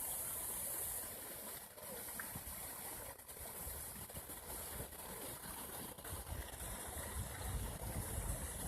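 Steady rush of water running out of a culvert pipe beneath a frozen ice formation, with a low rumble building in the last couple of seconds.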